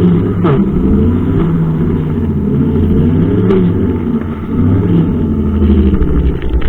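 Brushcutter engine running steadily and loud, its pitch wavering up and down.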